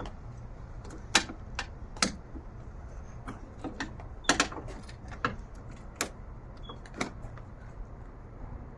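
Sharp, irregular metallic clicks and knocks, about one a second, as a screwdriver is worked against a stuck part in a car's engine bay, over a low steady hum.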